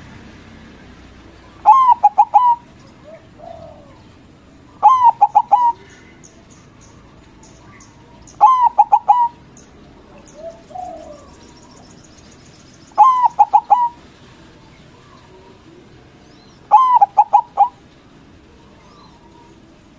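Zebra dove (perkutut) cooing: five phrases of quick, ringing notes, each about a second long and several seconds apart. Two fainter, lower calls come between them, and small birds chirp faintly high up.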